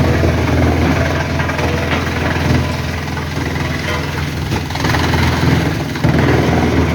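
A large engine running steadily, a low drone with a rougher mechanical noise over it that swells and eases.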